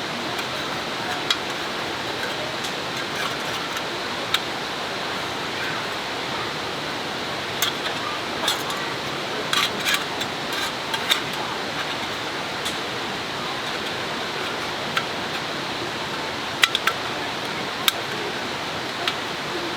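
Steady rush of running river water, with scattered light clicks and clinks of things being handled, most of them in the middle and near the end.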